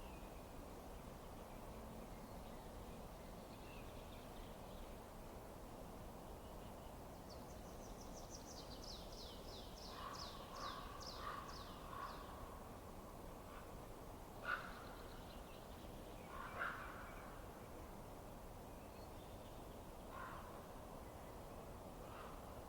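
Faint steady hiss with birds calling: a quick run of high, falling chirps about eight seconds in, then lower calls, with two short sharp sounds standing out midway.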